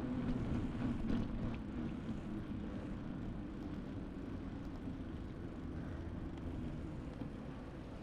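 A motor vehicle's hum dropping slightly in pitch and fading, over a steady low outdoor rumble.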